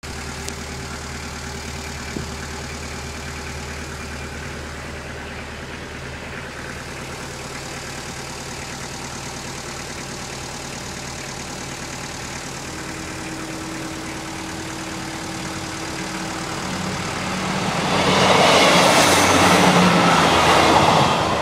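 Passenger train passing a level crossing. A rising rumble from about sixteen seconds in grows into loud wheel and engine noise over the last few seconds. Before it there is a steady low hum with a faint steady tone.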